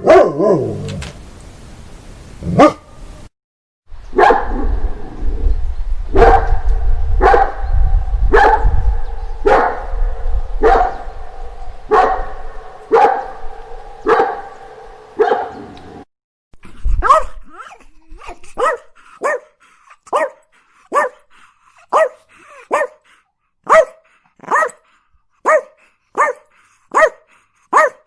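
Dogs barking in successive clips. First comes a run of barks about once a second over a low rumble. After a short break there is a run of shorter, sharper barks, slightly faster.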